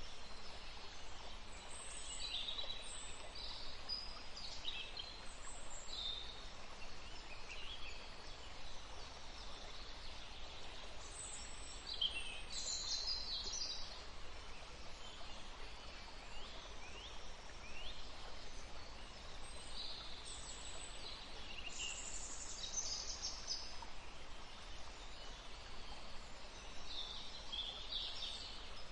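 Songbirds chirping and trilling over the steady rush of a forest stream.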